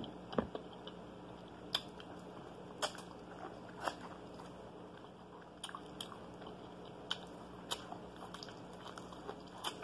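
Close-up biting and chewing of boiled corn on the cob: scattered short sharp clicks and mouth sounds, roughly one a second, over a faint steady hum.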